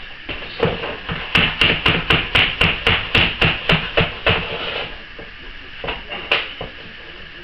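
A hammer tapping in a quick, even run of about a dozen sharp strikes at roughly four a second, with a few single knocks before and after. The strikes knock a laminate plank back from the wall to open its expansion gap.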